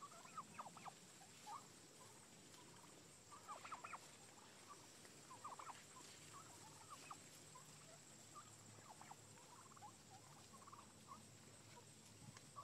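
Near silence with faint distant bird calls: short bursts of quick notes every second or two.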